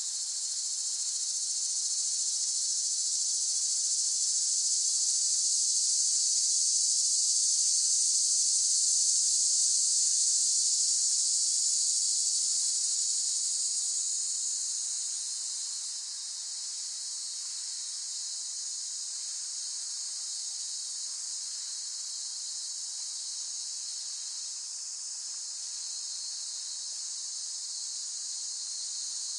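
Cicadas singing in a dense, steady high-pitched buzz that swells louder in the first half, then eases down about halfway through and holds level.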